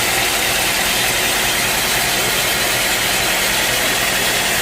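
A sawmill's engine running steadily under a constant wide hiss, with no change in pitch or speed.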